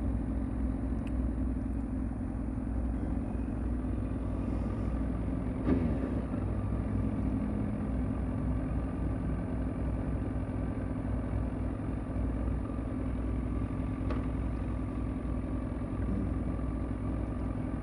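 Engines idling at a standstill: a steady low rumble from a motorcycle and a Chevrolet Camaro, with a brief small swell about six seconds in.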